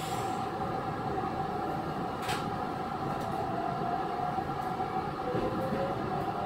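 Running sound of a Chiba New Town Railway 9100-series car, Moha 9128 with WN drive, heard from inside the car. A steady traction motor and gear whine sits over a rumble of wheels on rail. A second whine rises about five seconds in, and there is a single sharp click a little over two seconds in.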